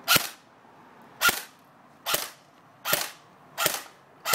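JG Dragon CQC battery-powered airsoft gun firing single shots in semi-auto, each a sharp crack, about six shots a little under a second apart.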